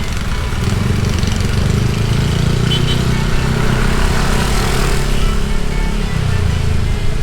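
Motorbike engine running steadily while riding along, with road noise.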